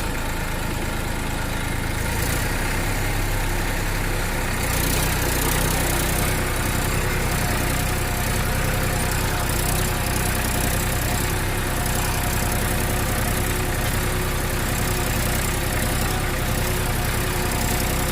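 Tractor engine idling steadily, a low, even running beat.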